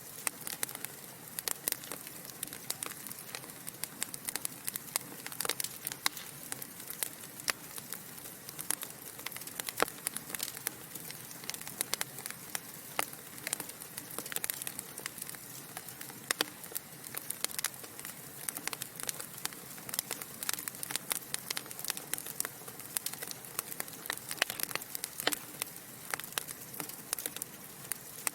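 Wood fire crackling steadily: logs burning in a fireplace, with frequent sharp pops and snaps at irregular intervals over a soft hiss.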